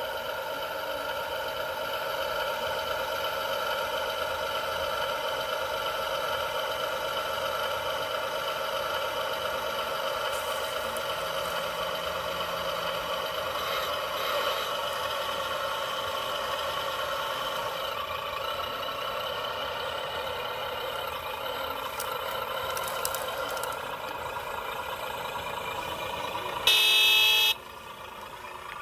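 Radio-controlled 1/14 scale truck running with a steady engine-like tone from its electronic sound unit. Near the end comes one short, loud horn toot.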